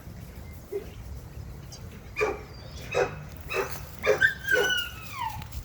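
A dog barking: about five short barks, roughly two a second, starting about two seconds in, followed by a falling whine near the end.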